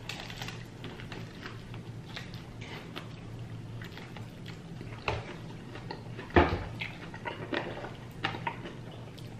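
A person chewing food with small wet mouth clicks and smacks, two of them louder about five and six and a half seconds in, over a low steady hum.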